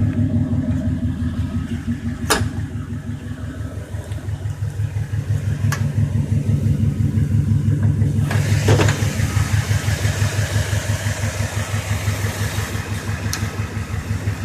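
Chevy pickup's roller-cam engine, fitted with an Edelbrock carburetor, idling steadily just after a cold start. A few sharp clicks are heard, and a hiss comes in about eight seconds in for several seconds.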